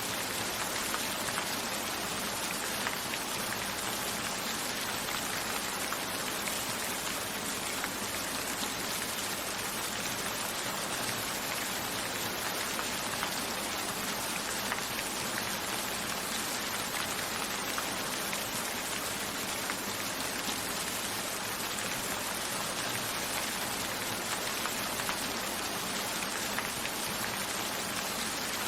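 Steady rain falling evenly, with many individual drops ticking through the hiss.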